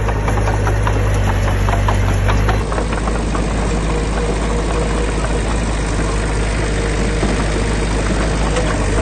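Heavy diesel engine of construction machinery running steadily, with short rattling knocks in the first couple of seconds; the sound changes abruptly about two and a half seconds in.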